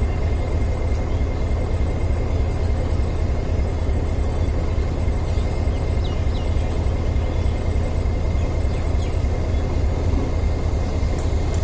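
Steady low rumble of a moving electric suburban train heard from on board, with a faint steady high whine over it.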